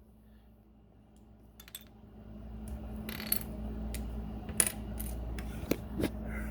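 Small plastic Lego bricks being pulled apart and handled, giving a few sharp separate clicks, over a low steady hum that comes up about two seconds in.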